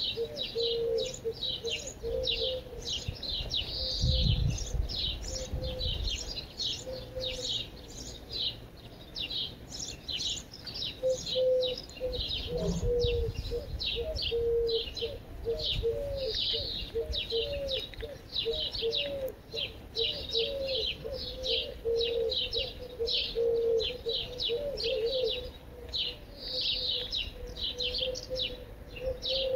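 Songbirds chirping without a break, many quick high chirps overlapping, with a lower bird call repeating underneath. Brief low rumbles come about four seconds in and again around twelve seconds.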